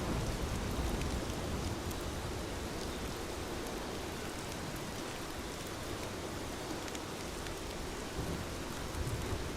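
Steady heavy rain with scattered light ticks, and a low thunder rumble that dies away over the first couple of seconds.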